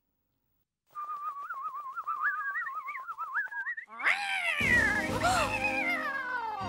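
A cartoon cat yowling about four seconds in, one long call falling in pitch, over background music. Before it, a high wavering tune plays with faint ticks.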